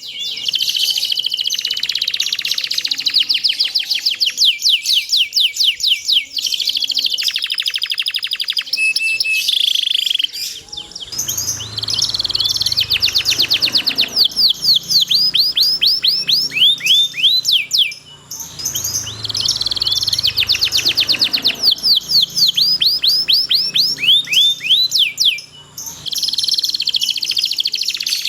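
Domestic canary singing a long song of fast rolling trills and runs of quickly repeated down-sweeping chirps, pausing briefly a few times.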